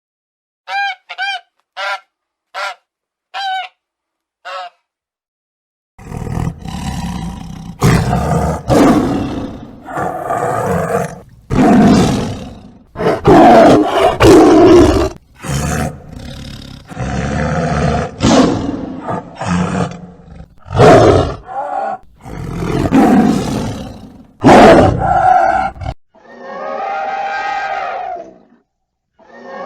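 A run of recorded animal calls. About six short, pitched calls come first, then a pause, then some twenty seconds of loud, harsh calls in repeated bursts, and near the end a long pitched call.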